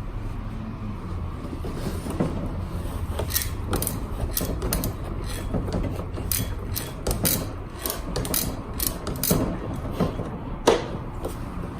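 Hand tools clicking and knocking on metal parts while working on a scooter's seized rear wheel, in an irregular run of sharp clicks with one sharper knock near the end.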